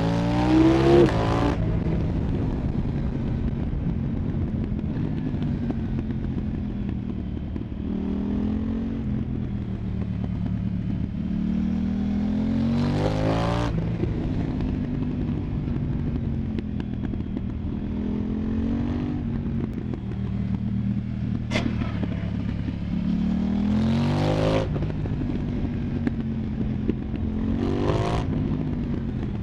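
2024 KTM 990 Duke's parallel-twin engine through an Arrow Pro Race exhaust, under way: the engine note climbs under acceleration and falls back about six times as the bike shifts and rolls off. There is one short sharp crack a little after the middle.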